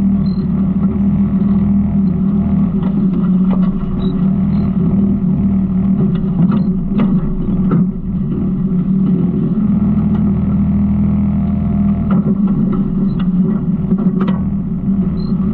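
Garbage truck engine running steadily, with scattered knocks and rattles, clustered about six seconds in and again near the end.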